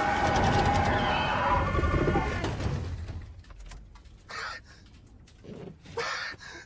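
Race car engine and tyres dying away over the first three seconds, the engine note falling as the car slows, then a man's short, broken sobs.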